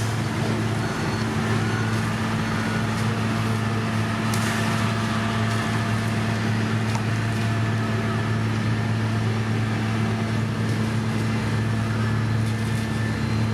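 Heavy diesel road-construction machinery running steadily with a constant low engine hum, and a brief hiss about four seconds in.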